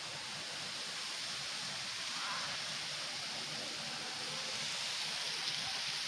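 Steady, even hiss with no distinct events, like rushing water or wind.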